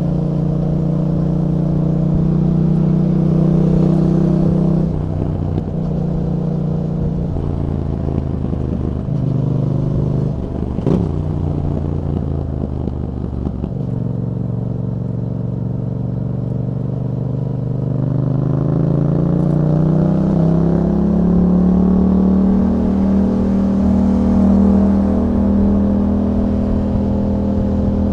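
2021 Yamaha MT-07's parallel-twin engine running through an Akrapovič exhaust with a YAHOM dB killer. Its pitch steps down several times as the throttle eases and gears change, with one short sharp crack about eleven seconds in. Later the pitch rises steadily under acceleration, then holds.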